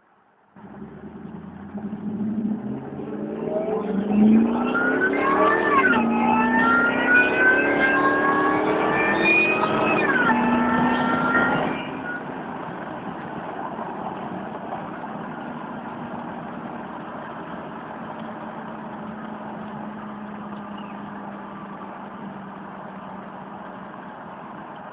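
2004 Ford Lightning's supercharged 5.4-litre V8, with a Bassani cat-back exhaust, accelerating hard. The pitch climbs and drops sharply at gear changes, twice. About 12 s in the throttle eases and the engine settles to a steady, quieter cruise.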